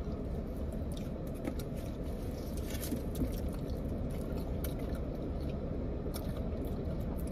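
Chewing and biting of someone eating chicken wings, with scattered small mouth clicks, over a steady low rumble.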